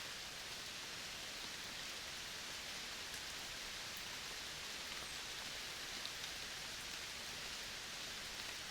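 Steady forest ambience in a Colombian Caribbean reserve: an even, unbroken hiss with a few faint ticks scattered through it.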